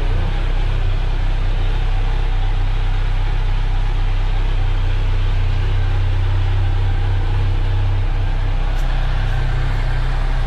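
2020 Kawasaki Z900's inline-four engine idling steadily through its stock exhaust while warming up, with no revving.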